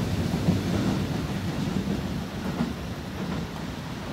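Low rumble of an electric train pulling away from the platform, slowly fading, with a faint steady hum under it.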